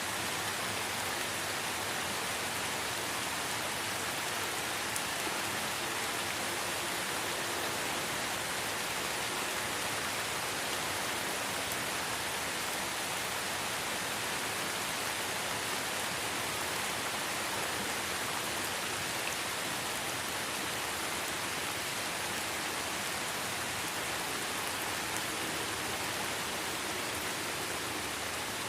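Light rain falling steadily, a soft even hiss of drops with no breaks or single louder events.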